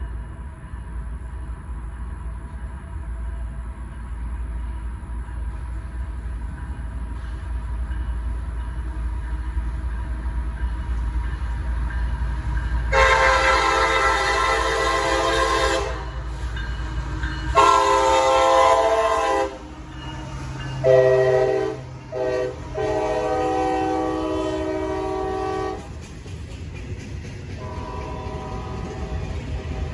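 Approaching CSX diesel freight locomotive rumbling as it draws closer, then sounding its horn: two long blasts, a short one and a final long one, the grade-crossing signal. A fainter horn follows near the end.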